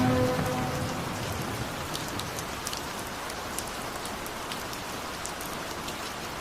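Rain falling steadily: an even hiss with scattered drop ticks. The last sustained notes of the slowed, reverb-heavy music fade out in about the first second.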